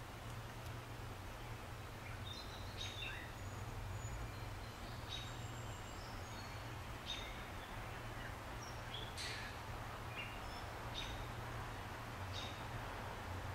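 Scattered short, high bird chirps and whistles, some falling in pitch, over a steady background hiss and a low hum.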